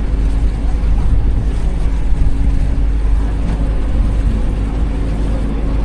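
Tour boat's engine running steadily underway, a low constant rumble, with wind buffeting the microphone.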